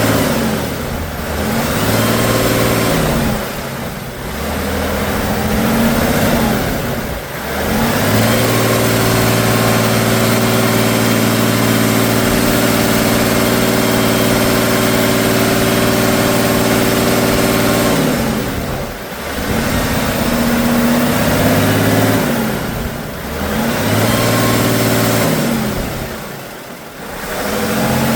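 Off-road truck engine revving hard in repeated surges, each rising and falling, with short dips between them. In the middle it holds steady at high revs for about ten seconds.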